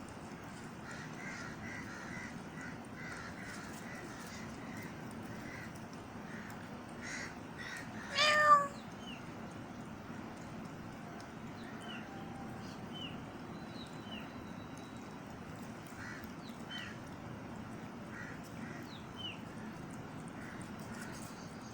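A cat meows once, loud and brief, about eight seconds in, over a steady background hiss, with faint short high chirps now and then.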